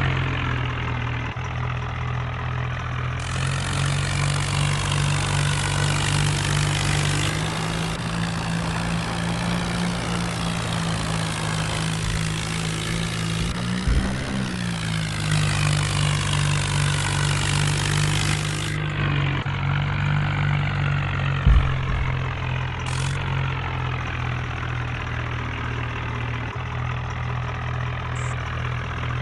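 Tractor engines running steadily, their pitch rising a little for several seconds in the middle as the engines speed up. There are two short knocks, one near the middle and one about two-thirds of the way through.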